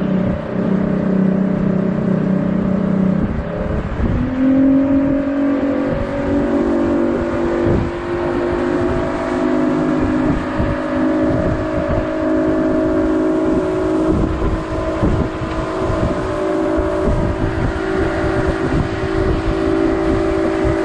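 Yamaha 225 V6 outboard motor running under way. Its pitch rises as the throttle opens about four seconds in, then holds steady at a higher speed. Wind rumbles and buffets on the microphone underneath.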